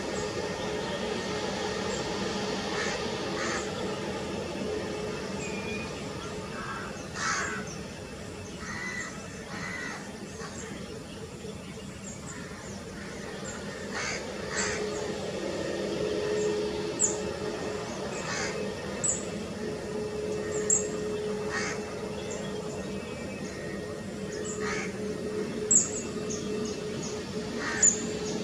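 Birds, crows among them, calling again and again in short cries, over a steady low hum.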